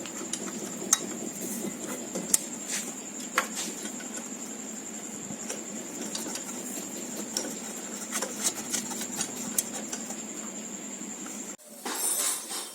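A small machine running steadily with a high constant whine and scattered clicks and knocks, cutting off suddenly near the end.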